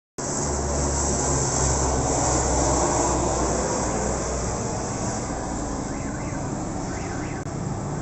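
Steady jet aircraft engine roar with a strong hiss and a low hum, swelling slightly in the middle.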